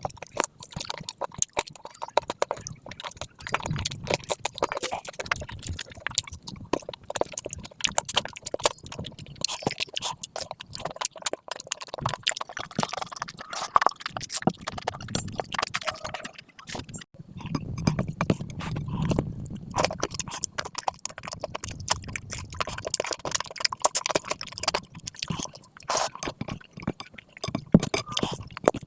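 Close-miked eating sounds: wet chewing, lip smacks and sharp mouth clicks in an irregular stream, from a person eating rice and meat curry.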